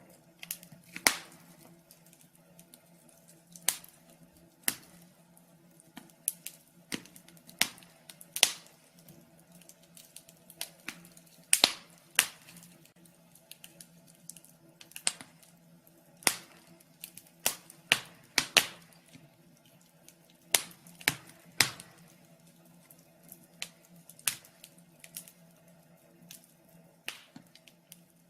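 Wood fire crackling in a fireplace: irregular sharp pops and snaps, a few of them much louder, over a faint steady hum.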